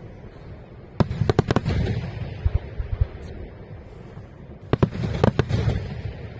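Aerial fireworks shells bursting in two quick volleys of sharp bangs, one about a second in and another near the end, with a low rumbling echo between them.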